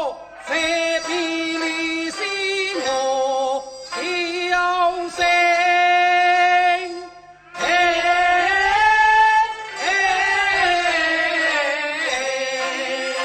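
Teochew opera music with singing: long held notes that step from pitch to pitch, broken by brief pauses.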